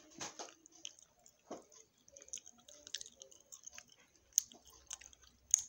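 Mouth sounds of someone chewing a piece of chocolate: irregular soft wet clicks and smacks, with a few sharper clicks near the end.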